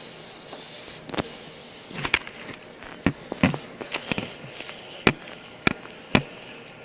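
A run of about ten sharp knocks and clacks at irregular spacing, over a faint steady hiss.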